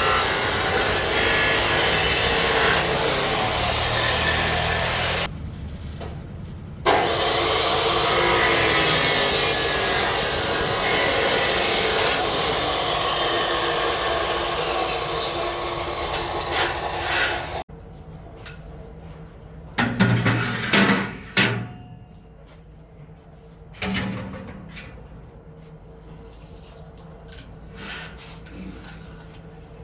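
Steady rasping of a tool working a surface, like sawing or sanding, with a short break about five seconds in, stopping abruptly a little over halfway through. After that, a few scattered knocks and clatters.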